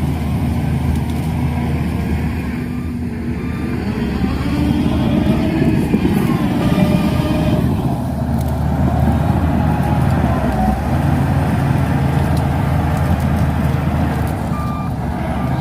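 Shantui DH17C2 bulldozer's diesel engine running steadily as the machine works, swelling a little about four seconds in, with a few short faint squeals over it.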